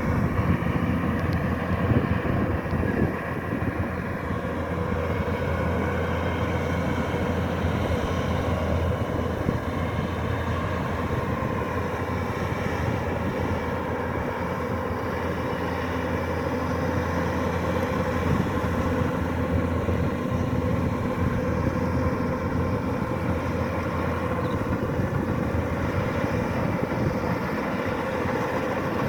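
Kubota DC-105X rice combine harvester running steadily: a constant, unbroken diesel engine and machinery drone.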